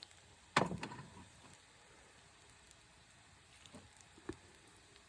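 Chopped onion sizzling faintly as it fries in a pan, with a sharp clatter about half a second in and a few light clicks later.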